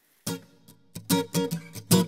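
Background music: an acoustic guitar strummed in a steady rhythm, starting a quarter second in and getting louder about a second in.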